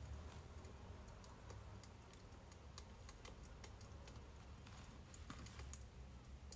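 Birch logs burning, with faint, irregular small crackles and pops over a low, steady rumble.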